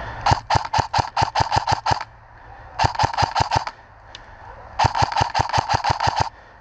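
Airsoft gun firing three strings of rapid shots, about six sharp cracks a second: about ten shots, a short pause, five more, then about nine.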